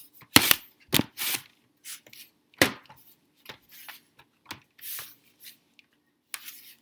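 Hands kneading and folding soft homemade play dough on a mixing tray: irregular pats and knocks of uneven loudness, the loudest about half a second in and again about two and a half seconds in.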